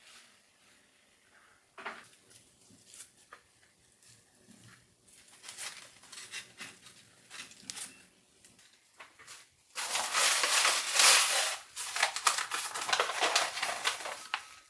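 Household handling sounds: scattered light clicks and taps, then about ten seconds in a louder, uneven rustling noise that lasts about five seconds.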